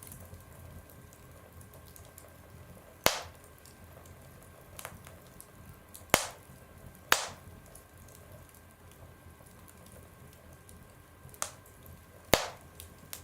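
Wood fire burning in a stove, crackling with about five sharp pops and a few smaller snaps over a low hiss.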